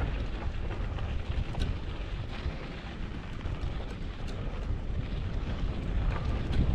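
Wind buffeting the microphone on a moving mountain bike: a gusty low rumble with a steady rushing hiss and a few faint clicks.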